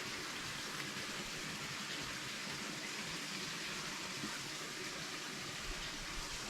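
Steady hiss of water running into or out of a natural pool, even throughout.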